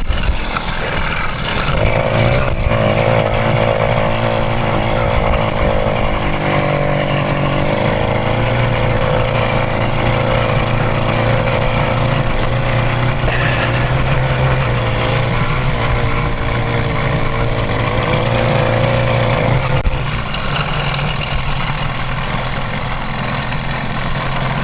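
Stock 66cc two-stroke motorized-bicycle engine running steadily as the bike rides along, easing off about twenty seconds in.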